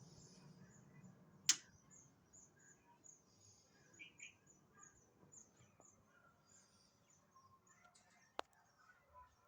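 Birds chirping faintly, with short high notes repeating quickly throughout and a pair of lower chirps about four seconds in. A sharp click stands out about a second and a half in, and a smaller one comes near the end.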